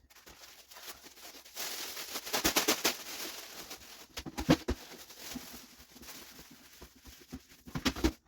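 Plastic garbage bag rustling as it is fitted into a bin, loudest for a couple of seconds near the start, followed by a few sharp knocks from the bin being handled.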